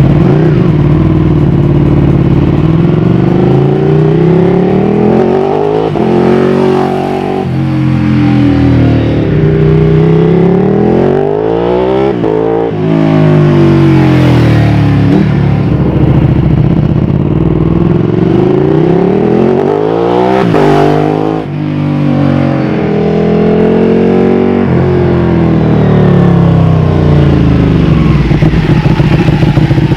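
Ducati 1299 Panigale's L-twin engine through a full titanium Akrapovič exhaust, loud throughout. Its pitch climbs and drops back again and again as the bike is revved and ridden hard.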